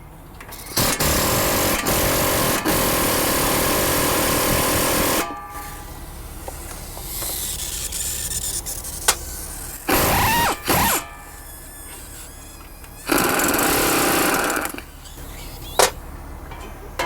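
Bursts of a power tool working on a car's front hub and brake parts: one long run of about four seconds near the start, two short bursts about ten seconds in, and another run of a second and a half about thirteen seconds in, with a few sharp clicks between.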